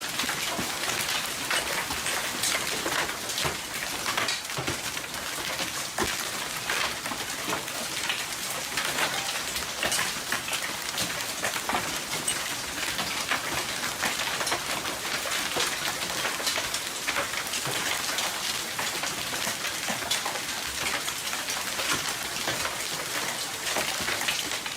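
Hailstorm: hail and rain pelting down, a steady dense patter of countless small impacts.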